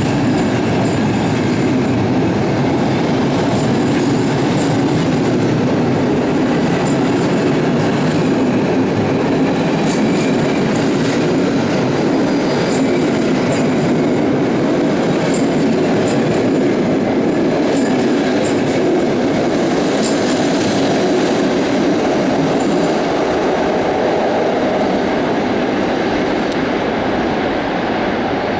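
Passenger train moving along the station platform, its wheels clicking over the rail joints above a steady, loud rumble.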